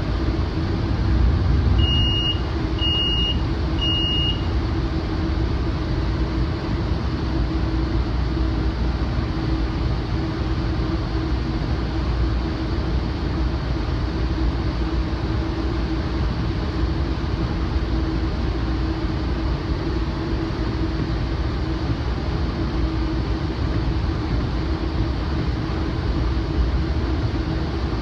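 Rumble of a Metrolink Rotem cab car rolling along the track, with a steady hum under it. About two seconds in, the cab's alerter beeps three times, about a second apart.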